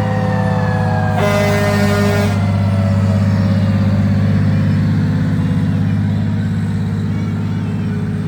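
Fire truck siren gliding slowly down in pitch, with an air horn blast about a second in that lasts about a second, over a steady low engine drone.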